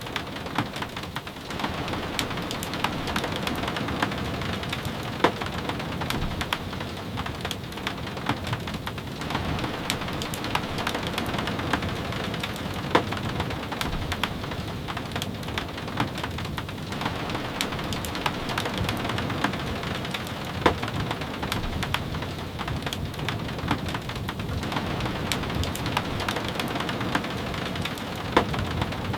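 Steady rain falling, mixed with the scattered sharp pops and crackles of a wood fire.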